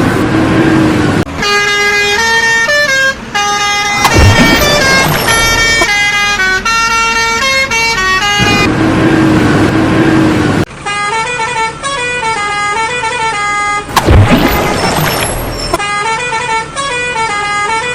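Cartoon vehicle sound effects: long held horn blasts alternating with engine and traffic noise. There are two loud hits, about 4 and 14 seconds in, and the sequence repeats halfway through.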